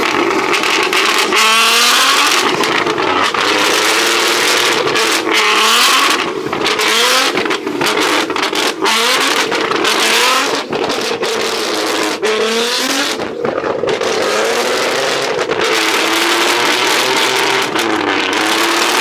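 Car engines revving hard and loud, the pitch climbing and dropping again and again.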